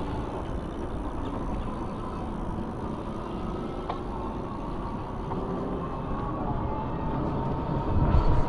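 Electric bike riding along a trail: steady tyre and road rumble with wind on the microphone and a faint steady whine. A single click about four seconds in, and gusts of wind buffeting the microphone near the end.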